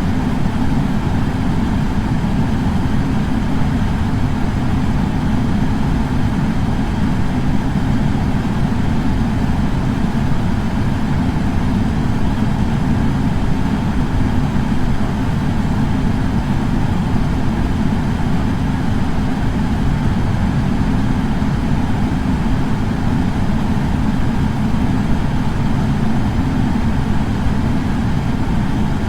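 Air purifier fan running steadily: an even, low whooshing hum that never changes.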